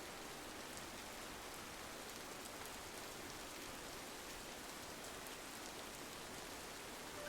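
Rain on a window pane: a steady, soft, even hiss with a few faint ticks of single drops.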